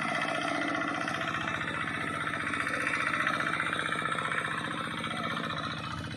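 Modified riding tractor's engine running steadily while ploughing a rice paddy, with a fast even chugging pulse; it fades slightly near the end.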